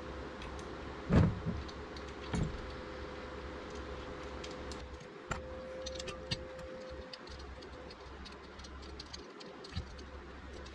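Small mounting hardware being handled and fitted: a dull knock about a second in and a smaller one a second later, then scattered light clicks and clinks of bolts and washers over a faint steady hum.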